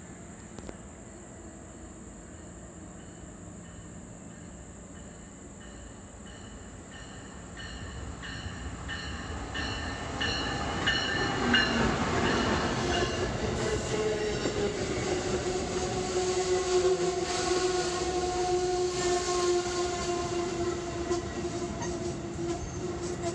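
Amtrak passenger train behind a Siemens ACS-64 electric locomotive approaching and passing at speed. A faint rumble grows from about a third of the way in and is loudest as the locomotive goes by near the middle. The passenger cars then roll past as a steady rumble with a sustained tone above it. A high pulse repeats steadily through the approach.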